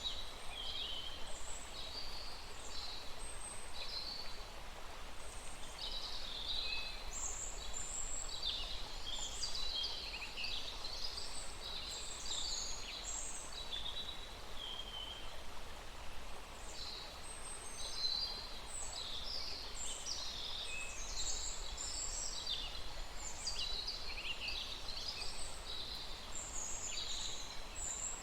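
Several songbirds chirping and trilling busily in quick, overlapping high-pitched calls, over the faint steady hiss of a small stream.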